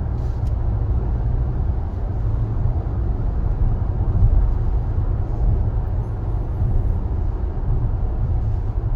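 Steady low rumble of road and engine noise inside the cabin of a SsangYong Torres SUV as it drives.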